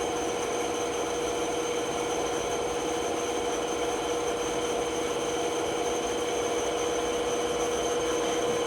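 Bandsaw running steadily with an even hum, its note not changing.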